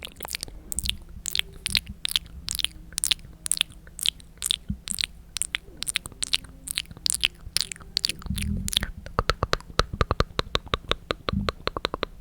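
Close-miked ASMR mouth sounds: wet tongue-and-lip clicks at about three a second. About nine seconds in they give way to a faster run of lighter clicks.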